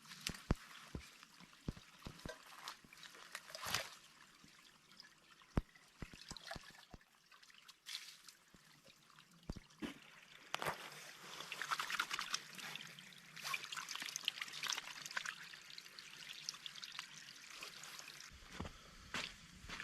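Liquid trickling and pouring, with scattered light clicks and knocks; the trickling grows denser from about halfway through.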